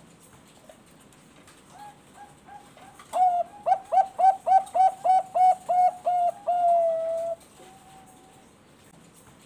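Perkutut bangkok (zebra dove) singing: a few soft coos, then about three seconds in a loud run of about a dozen quick, clipped coos ending in a longer held note, and one soft coo after it.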